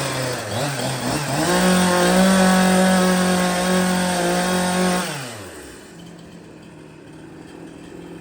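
A power tool's motor running at high speed, dipping briefly under load near the start, then running steadily. About five seconds in it is switched off and winds down to a stop.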